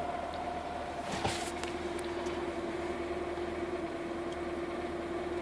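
VAZ 2106 four-cylinder petrol engine idling steadily with a light tapping knock, which the owner takes for valve clatter.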